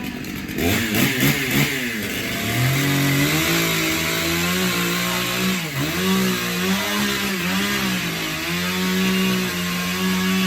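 Chainsaw engine revved up to full speed and held there, its pitch dipping briefly a few times as it loads, then dropping back toward idle at the end.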